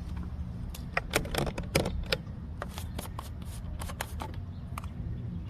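Irregular short clicks and crinkly rustling of plastic being handled, with a steady low rumble underneath: a motor oil bottle being opened and readied to fill the engine.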